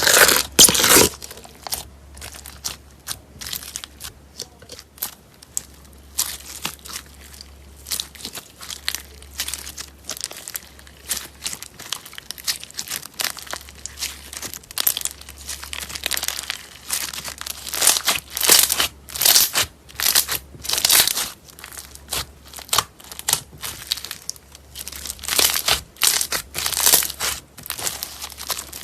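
Slime being squeezed, poked and stretched by hand, giving a steady run of short, irregular crackles and squishes, several a second, with louder clusters past the middle and near the end.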